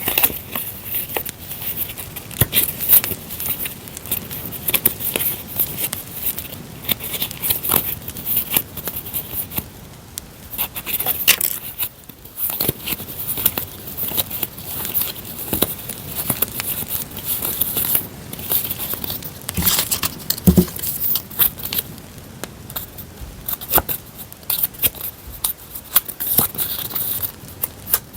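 Paper and sticker sheets being handled and rustled, over a steady crackling campfire sound.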